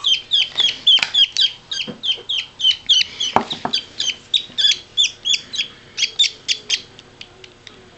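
Parakeet chicks giving rapid, repeated high cheeps, each dropping in pitch, about three a second, fading out near the end. These are the begging cries that hungry chicks make while being fed.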